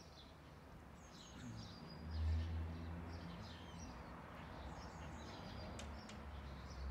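Small birds chirping intermittently, with a faint low rumble that swells about two seconds in and carries on under them.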